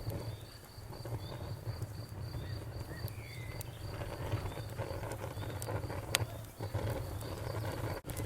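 Cricket chirping steadily at a high pitch, about four chirps a second, over the low rumble of a bonfire with scattered crackles and pops, one sharp pop about six seconds in.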